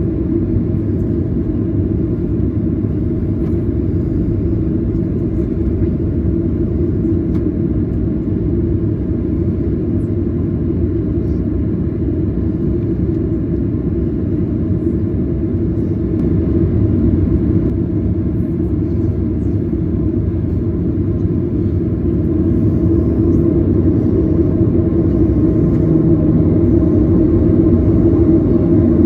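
Steady low rumble of a Boeing 737-900ER's cabin, the CFM56-7B jet engines and airflow heard from inside the aircraft, growing slightly louder in the last few seconds.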